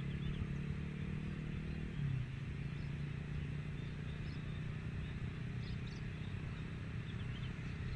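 Jet airliner engines making a steady low rumble, with a low hum that drops away about two seconds in.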